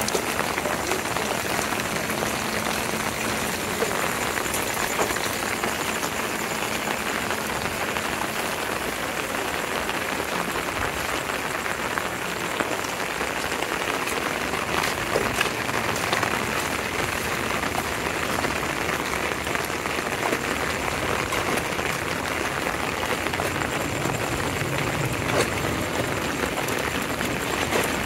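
Heavy rain falling steadily, countless drops hitting wet pavement, standing water and foliage. A low rumble builds near the end.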